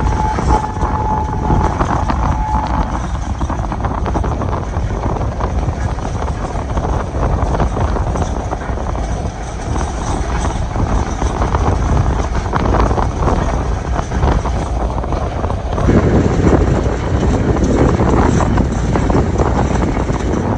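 Moving passenger train running on the line: a steady rumble of wheels on rail mixed with wind noise, growing louder about 16 seconds in.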